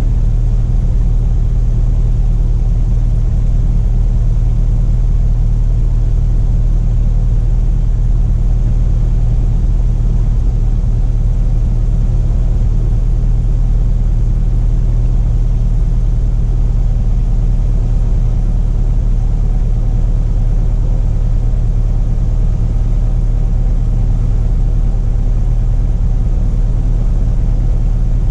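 Steady drone of a Cessna Cardinal RG's four-cylinder Lycoming engine and propeller in cruise, heard inside the cabin. It is loud and unchanging, with a deep low hum.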